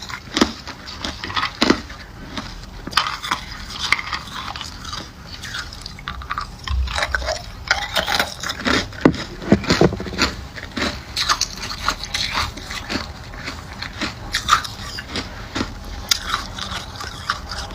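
Close-up crunching and chewing of ice, with irregular sharp cracks several times a second.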